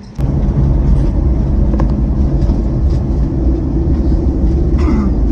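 Road vehicle on the move: a steady low engine drone with road and wind noise, cutting in abruptly just after the start.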